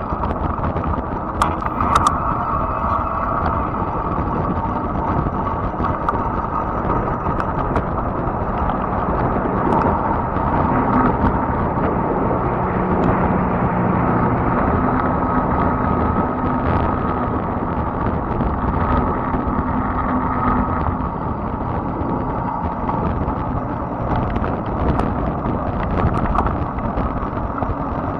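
Fat-tire electric bike being ridden: steady tyre and road noise with wind on the microphone, a faint steady whine, and scattered light clicks and knocks.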